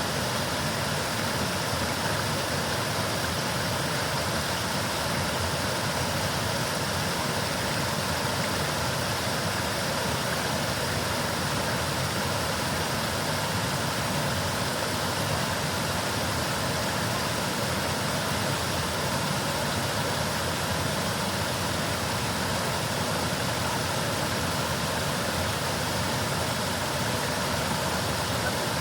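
Steady, unbroken rush and rumble of a large waterfall, Burgess Falls, with water pouring over the drop.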